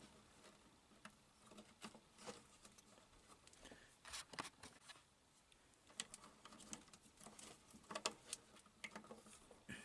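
Faint, scattered clicks and light rustling of wire leads and push-on spade connectors being handled as unused fan-speed wires are fitted onto the park terminals of an HVAC unit's control board.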